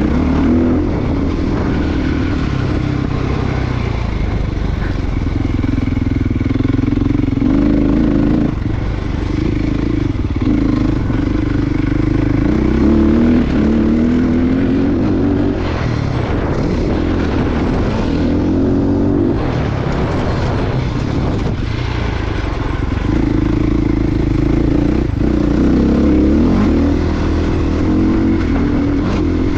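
Dirt bike engine working hard around a motocross track, its pitch rising and falling again and again as the throttle is opened and closed and the bike shifts gears, over a steady low rumble.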